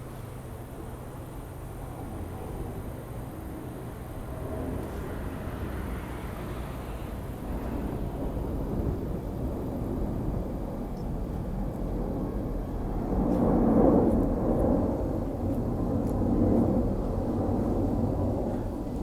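Airliner on landing approach passing low overhead: a deep rumble that swells steadily, peaks about three-quarters of the way through, then eases slightly.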